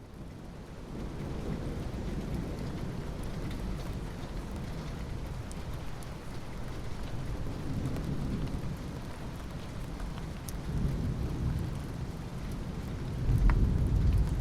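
Steady rain with low rolls of thunder that swell a few times, the loudest rumble near the end. The sound fades in over the first second.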